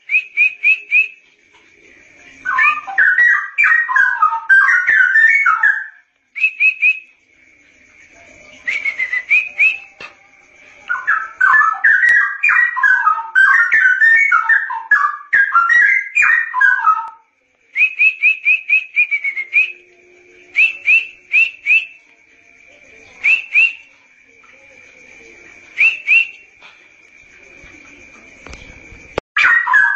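Straw-headed bulbul (cucak rowo) singing: two long, loud bursts of rapid bubbling whistled warbles, with runs of short, rising whistled notes in between.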